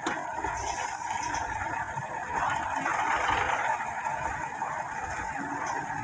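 Logging truck engine running steadily, a continuous noisy drone.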